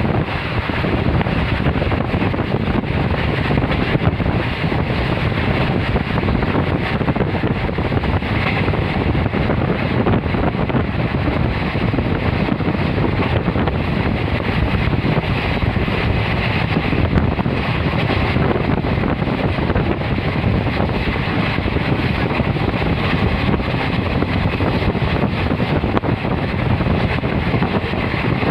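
Moving passenger train, heard as a steady rush of running noise and wind buffeting the microphone.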